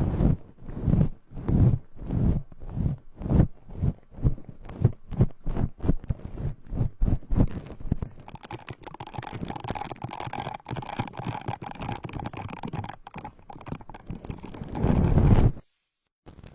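ASMR brush stroked across a binaural microphone, with close scratchy sweeps at about two a second. About halfway through it turns to a continuous brushing rub. It swells loudly near the end and then cuts off abruptly.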